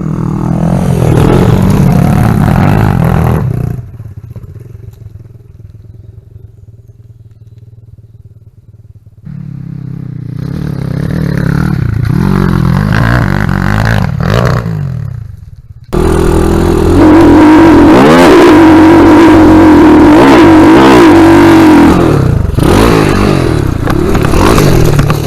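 Dirt bike engine revving and running under load, rising and falling in pitch; it drops to a faint drone for a few seconds, builds again, then jumps to a loud, steady high-revving note held for several seconds before easing off.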